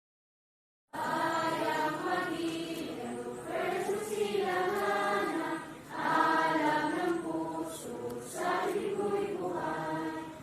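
A second of dead silence, then voices singing together in slow phrases of about two seconds each.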